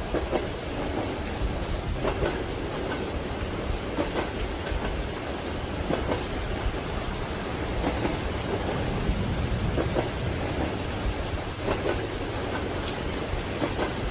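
Steady rain over the low rumble of a moving train, with soft clacks of the wheels over rail joints about every two seconds.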